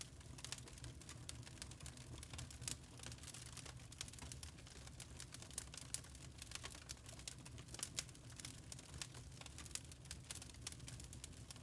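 Burning charcoal crackling: many small, irregular pops and snaps, some sharper than others, over a faint steady low hum.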